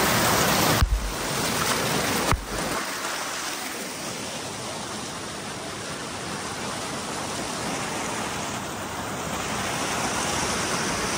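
Waterfall: a steady rush of falling water, with two sudden clicks in the first few seconds.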